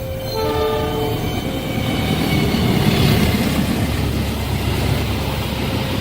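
Train passing at speed over the rails. Its rumble builds over the first three seconds, then holds steady, with a faint clickety-clack of the wheels.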